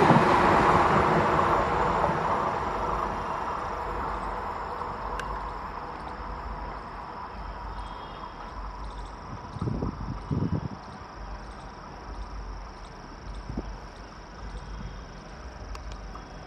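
A Vande Bharat Express electric train running away into the distance, its rushing noise fading over several seconds. Insects chirp faintly behind it, and there are a couple of low thumps about ten seconds in.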